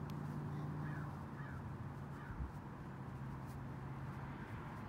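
A bird giving three short falling calls, about a second apart, over a steady low hum that stops near the end; a soft low thump comes about halfway.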